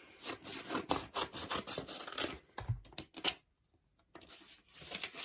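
Paper and plastic packaging being handled and opened by hand: a run of rubbing and scraping strokes, a dull bump about halfway through, a brief pause, then more scraping.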